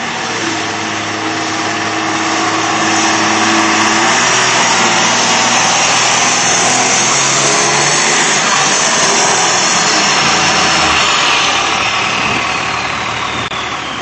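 2001 Dodge Ram 2500's 5.9-litre Cummins turbodiesel straight-six running hard at full power under the load of a pulling sled, loud and steady, then easing off about eleven seconds in with a falling whine.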